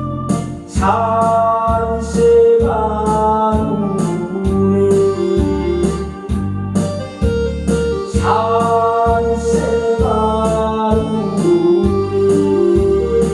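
Trot-style karaoke backing track: an electronic organ/keyboard plays the melody over a steady bass and drum beat, its held notes sliding up into pitch.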